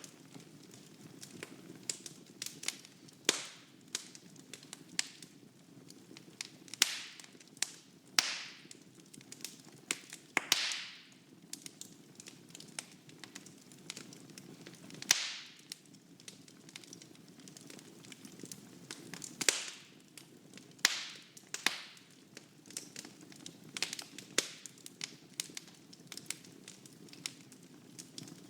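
Wood fire burning in a fireplace, crackling with sharp irregular pops, several times a second at times. There are a few short hissing bursts and a steady low rumble of the flames underneath.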